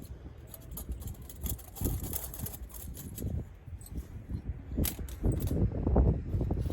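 Wind buffeting the microphone in uneven gusts, strongest near the end, with scattered light clicks and clinks of small metal gear being handled.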